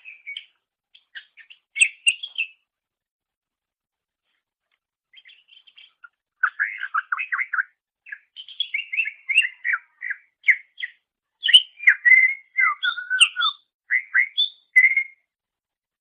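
Cucak ijo (green leafbird) singing. A few short phrases of quick notes come in the first couple of seconds, then a pause. From about six seconds in comes a long, rapid run of varied chirps and whistled notes.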